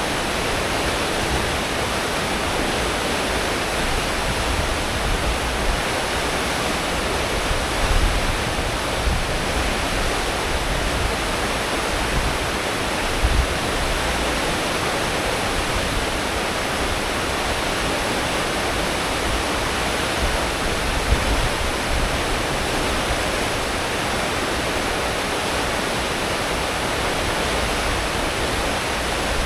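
Steady rushing of churned sea water in a cruise ship's wake at full speed, with a low rumble underneath that swells briefly a few times.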